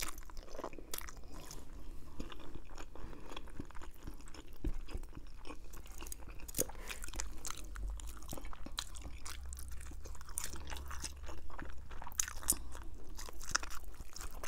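Close-up chewing and wet mouth smacking from eating fettuccine Alfredo, picked up by a clip-on microphone, with many short clicks running through it.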